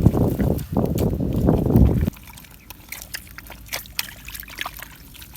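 Water sloshing and splashing that stops abruptly about two seconds in, followed by quieter trickling with scattered small clicks.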